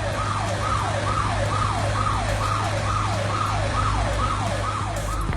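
Emergency-vehicle siren in a fast yelp, about two falling sweeps a second, over a steady low engine hum.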